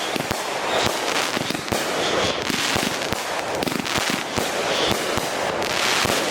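Phantom consumer fireworks going off in a rapid barrage: several sharp bangs a second over a constant crackle.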